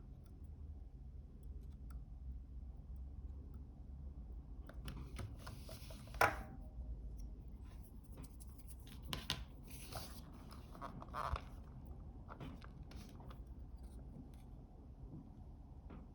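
Faint scratching and picking with a small tool at the transparent tape on a camera flex cable, in short rasps with a few soft clicks. The loudest click comes about six seconds in.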